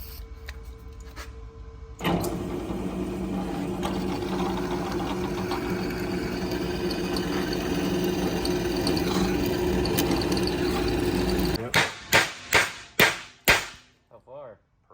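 A machine starts suddenly and runs at a steady pitch for about ten seconds, then stops, followed by five short, loud bursts in quick succession.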